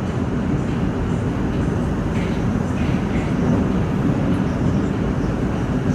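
Moscow metro train running between stations, heard from inside the carriage: a steady noise of wheels and running gear with no break.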